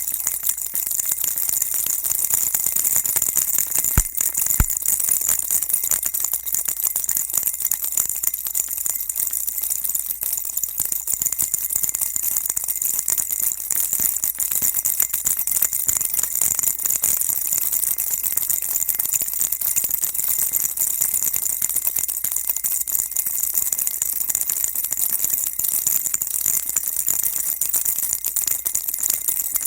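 Baby rattle shaken continuously: a dense, even, high-pitched shaking of small pellets. Two sharper clicks come about four seconds in.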